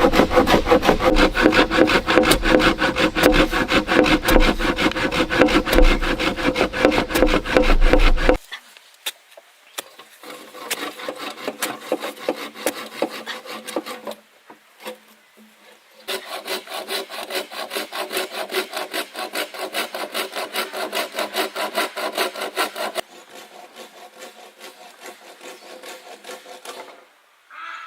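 Hand saw cutting through wood in fast, even back-and-forth strokes, about five a second. It is loud for the first eight seconds, then goes on more quietly in several bouts with short pauses between them.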